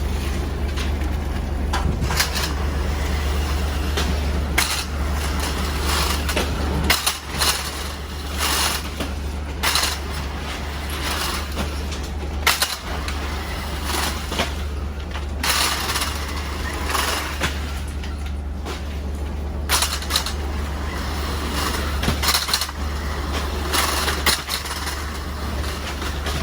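Fishing boat's engine running steadily, with irregular knocks and splashing bursts over it.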